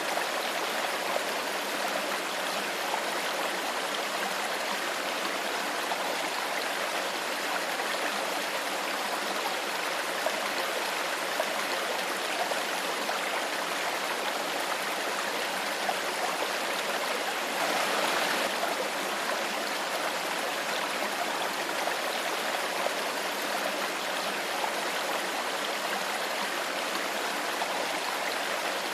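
A shallow stream flowing steadily, water gurgling and trickling over stones, with a brief swell in the rush about eighteen seconds in.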